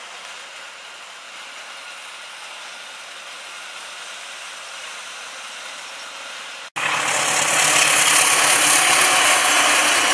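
A passenger train's coaches roll past with a steady hiss of wheels on the rails. About two-thirds of the way through it cuts to a much louder, steady rumble of a diesel locomotive running with its train, a low engine hum under the noise.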